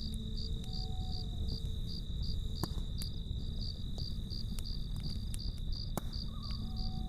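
Crickets chirping in a steady, even rhythm of about four chirps a second over a low, constant rumble. A few sharp campfire crackles come at irregular moments.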